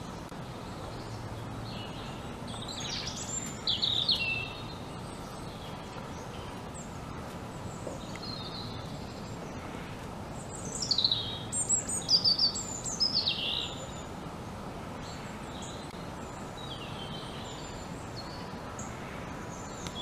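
Small birds calling over a steady background hiss of ambient noise: a few quick, high, falling chirps about three seconds in, and a louder run of falling whistled notes from about eleven to thirteen seconds.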